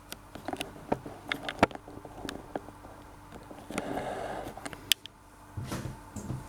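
Scattered light clicks and knocks of kitchen utensils being handled while an avocado is prepared, with a short scraping stretch about four seconds in and a sharp click just after.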